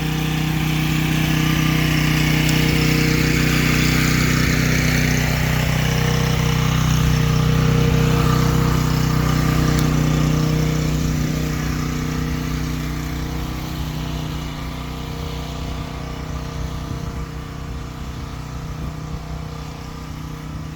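An engine running steadily at idle, with a constant hum. It grows fainter over the second half.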